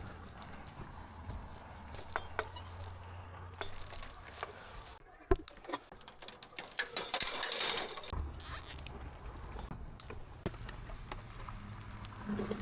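Light clicks and clinks of hand work with small hardware, with a sharp click about five seconds in and a burst of rustling around seven seconds, over a low steady hum that drops out for a few seconds midway.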